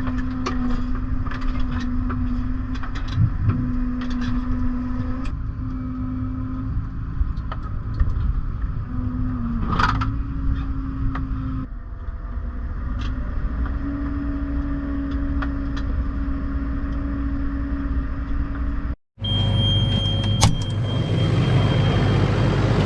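Case IH Puma tractor running steadily, heard from inside the cab: a low engine rumble with a steady hum and scattered light rattles and clicks. About 19 seconds in it cuts abruptly to a louder, rougher engine sound.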